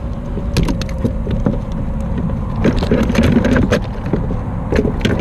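Irregular knocks, clicks and scrapes from handling on a fishing kayak, denser about a third of the way in and again just past halfway, over a steady low rumble.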